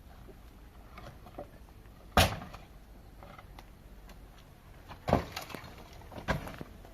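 Irregular sharp knocks of hard objects: three loud ones, about two, five and six seconds in, among a few fainter clicks.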